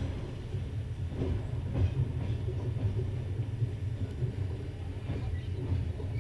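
Moving passenger train heard from a carriage window: a steady low rumble of wheels on the rails, with a few faint clacks as the wheels pass rail joints.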